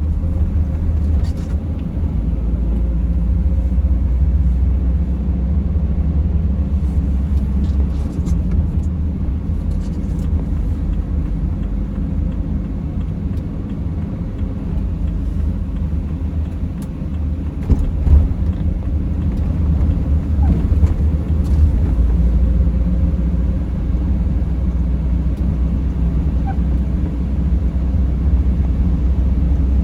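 Steady low rumble of a vehicle driving, engine and tyre noise as heard inside the cabin, with a few faint clicks and a brief knock about 18 seconds in.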